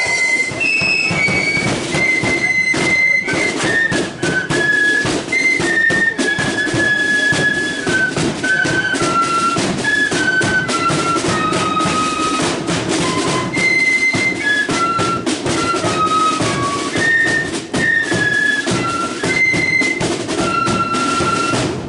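Marching flute band playing a tune: flutes in unison carry the melody of held notes over a steady beat of snare and bass drums.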